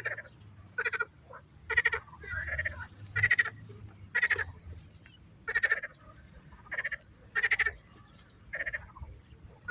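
A frog croaking: a short, pulsed call repeated about once a second.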